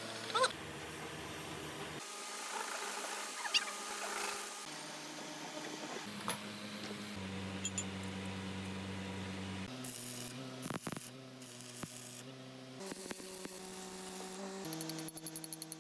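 Metalworking power-tool noise in short cut-together segments: a steady hum that changes pitch abruptly every few seconds, with a few sharp clicks about two-thirds of the way in.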